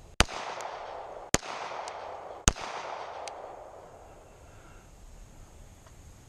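Three gunshots about a second apart, each followed by a long echoing tail that fades away. A few faint distant cracks follow.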